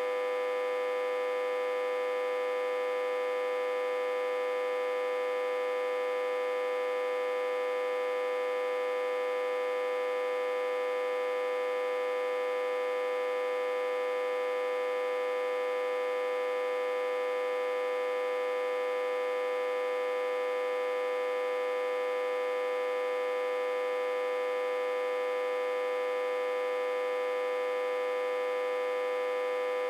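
Autotransformer humming electrically, reverse-connected to a step-down transformer and fed about 60–80 V. A steady, unchanging hum with one strong tone and a stack of higher overtones above it.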